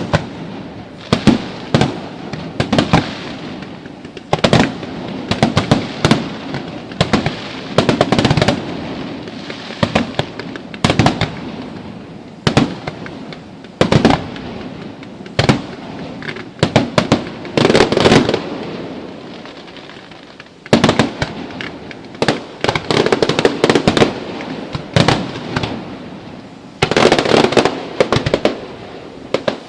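Aerial fireworks display: shells bursting with sharp bangs at irregular intervals, often several in quick succession, over a continuous crackle.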